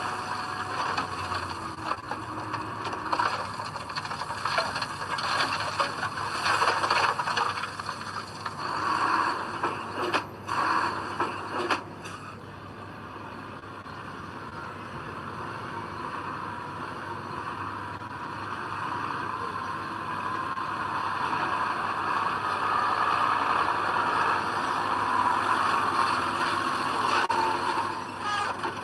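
Heavy earthmoving machine working, its engine running under rattling, scraping and clanking. There are two sharp knocks about ten and twelve seconds in, then a steadier machine sound that builds gradually.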